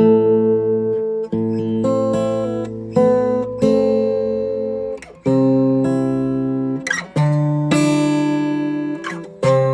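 Acoustic guitar music: chords plucked and strummed, each ringing out before the next, changing roughly every second.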